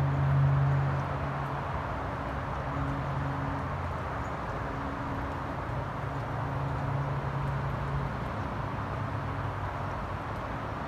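A steady low machine hum, loudest in the first second and then fainter, over a constant outdoor rush of background noise.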